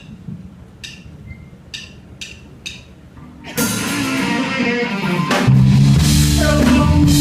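Live rock band starting a song. Short sharp clicks about a second apart, like a drummer's stick count-in, lead in. About halfway through, the band comes in with cymbals and guitar, and a heavy bass and drum groove fills out a couple of seconds later.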